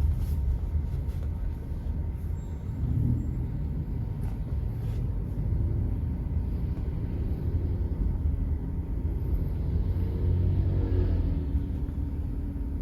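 Steady low engine rumble of a vehicle in motion, heard from on board.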